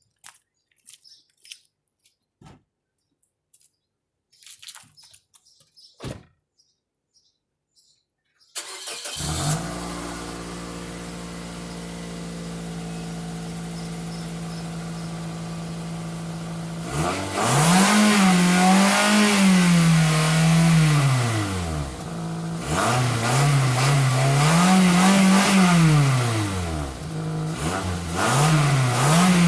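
A few faint clicks, then a 2007 Toyota Matrix's four-cylinder engine starts about eight and a half seconds in and idles steadily. From about seventeen seconds it is revved up and down again and again, its exhaust note rising and falling in pitch.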